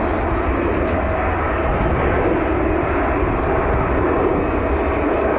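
Jet airliner engine noise, a steady, even rush with no change in pitch or loudness.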